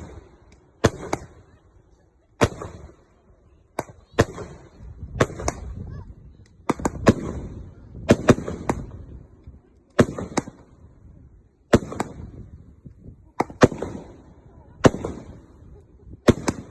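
Fireworks display: sharp explosions going off irregularly, one or two a second, often in quick pairs or threes. Each bang is followed by a rolling echo and a crackling hiss.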